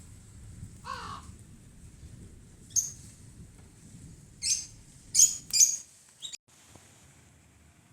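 Birds calling: one falling call about a second in, then several short, sharp, high calls in quick succession between about three and six seconds in, over a low rumble that stops shortly before the last calls.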